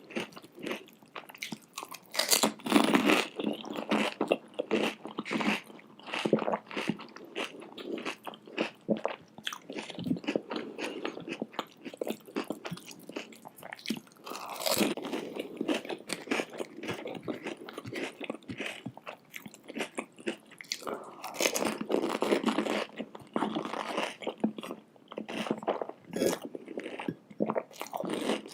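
Close-miked eating sounds: a person biting into and chewing crunchy food, with dense, irregular crackling crunches and louder bursts of biting about two seconds in, around the middle, and again late on.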